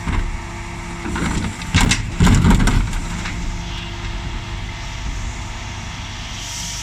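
Dennis Elite 6 bin lorry's diesel engine running steadily, with a steady mid-pitched tone over it. About two seconds in there is a short cluster of loud bangs.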